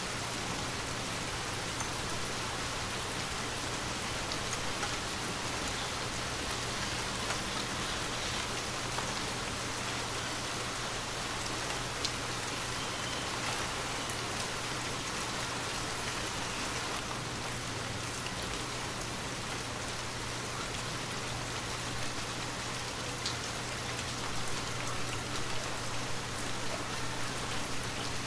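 Steady rain falling on surfaces: an even hiss with a few single drops ticking through it.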